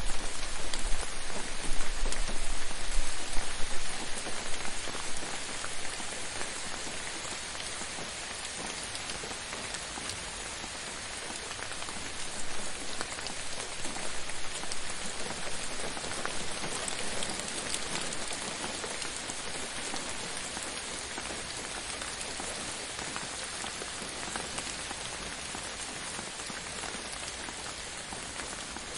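Steady rain falling on a surface, an even hiss of many drops with scattered distinct drips. It is heavier in the first few seconds, with a low rumble underneath, then eases to a gentler, steadier patter.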